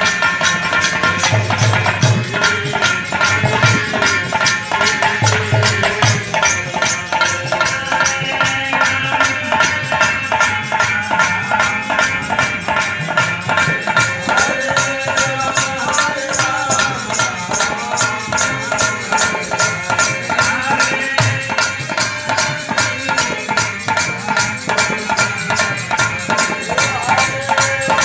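Hari kirtan music: a fast, steady beat of jingling, rattling percussion under a sustained melody.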